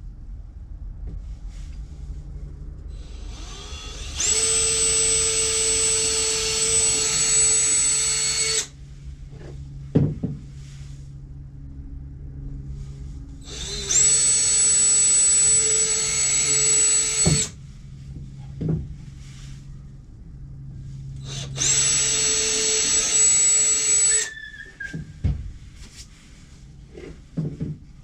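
Power drill running in three bursts of a few seconds each, with a steady high motor whine, and a few short knocks of handling between the bursts.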